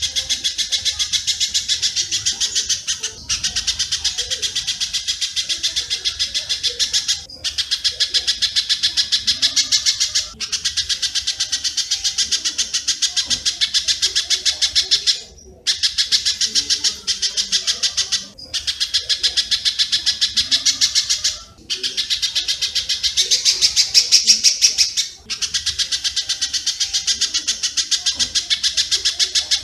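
Recorded calls of a spiderhunter (pijantung) and swiftlets (walet), played as a bird-training track. They form a rapid, dense run of high chirps in phrases of a few seconds, broken by short gaps.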